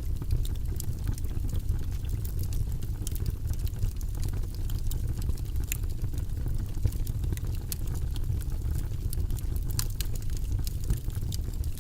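Wood fire burning in a fireplace: a steady low rush of flames with many sharp crackles and pops from the burning wood scattered throughout.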